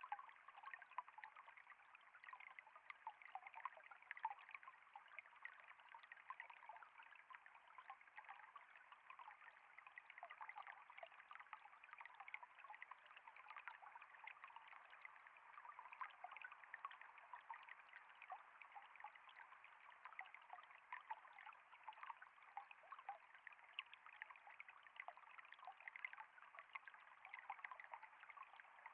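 Water trickling in a steady, faint flow, with a dense patter of tiny splashes and no change in its course.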